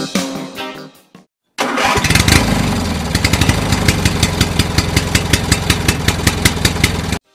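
A motorcycle engine running with a rapid, even pulse, starting abruptly after a brief silence and cutting off suddenly near the end. Intro music plays for about the first second.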